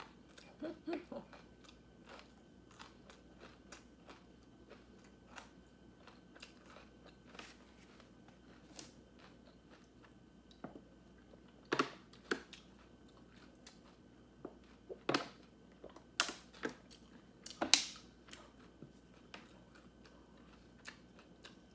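Close-miked eating: a person chewing and biting crunchy food, with scattered sharp clicks and crunches, the loudest bunched between about twelve and eighteen seconds in.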